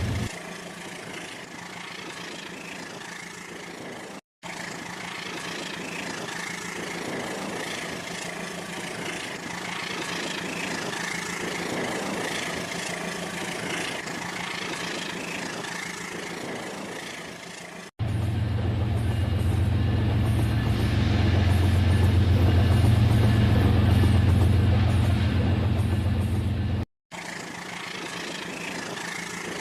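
Battery-powered Rail King toy train running along its plastic track with a steady mechanical running sound. Several clips are cut together, so the sound stops and restarts abruptly a few times, and it is louder with a deeper hum in the later clip.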